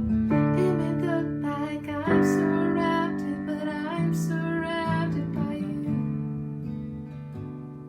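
Music led by a strummed acoustic guitar, with held chords changing every second or two.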